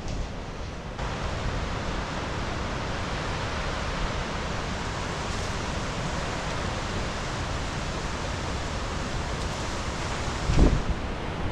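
Steady rushing noise of storm wind and rain. About ten seconds in, a gust buffets the microphone.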